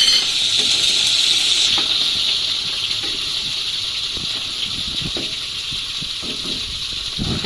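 Wet onion, ginger, garlic and green-chilli paste sizzling in hot ghee and oil, the sizzle slowly easing off.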